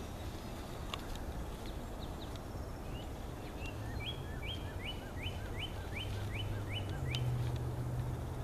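A songbird singing: a few scattered chirps, then a quick run of about ten rising notes, over a steady low hum.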